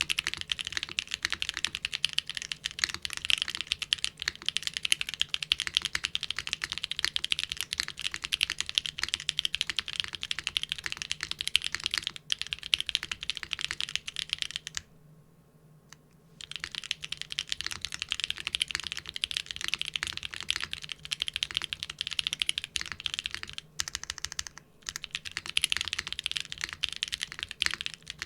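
Fast, continuous typing on a mechanical keyboard with doubleshot keycaps, a dense stream of key clicks and clacks. It stops for about two seconds just past the middle, then resumes.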